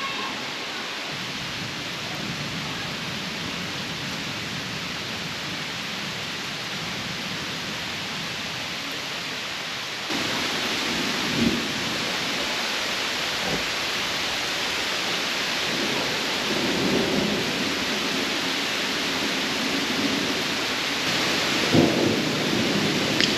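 Rain falling steadily during a thunderstorm, growing louder about halfway through, with several low rumbles of thunder in the second half.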